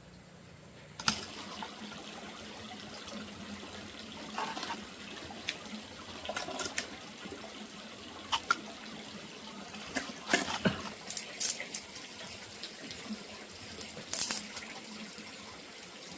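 Water running steadily, like a tap or a pour into a basin, starting about a second in, with scattered short knocks and clatters through it.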